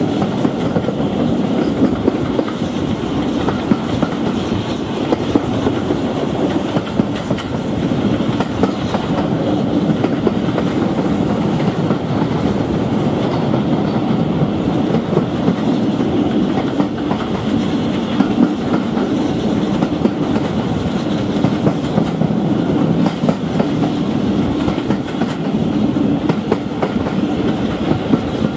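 Steam-hauled passenger train, with a BR 9F 2-10-0 at its head, running steadily at speed, heard from an open carriage window. A continuous rumble and rush of air, with the wheels clicking now and then over the rail joints.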